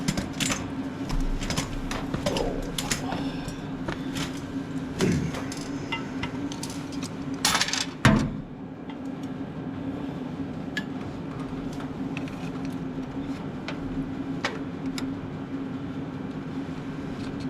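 Scattered clinks and knocks of hand tools against metal, with a louder clatter about eight seconds in that stops abruptly, over a steady low hum.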